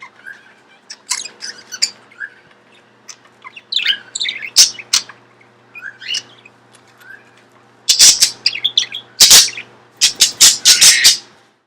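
Pet budgie and lovebird chirping in short scattered calls, then breaking into a run of much louder, rapid calls for the last few seconds.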